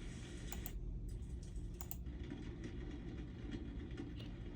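Recorded rain ambience playing quietly from a computer's speakers, with a few sharp mouse clicks.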